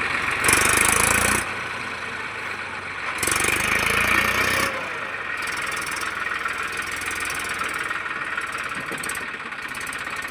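Eicher 380 tractor's diesel engine running, with two louder surges, about half a second in and again about three seconds in, before settling back to a steady idle.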